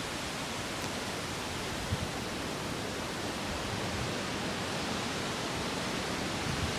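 Strong storm wind rushing steadily through trees, with one faint click about two seconds in.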